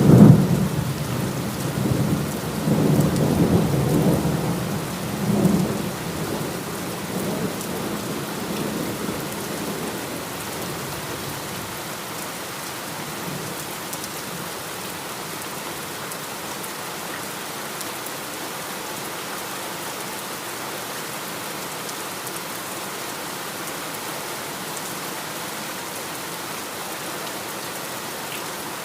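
Steady heavy rain falling, with a thunderclap at the start that rolls and rumbles in several swells for about eight seconds before dying away, leaving just the rain.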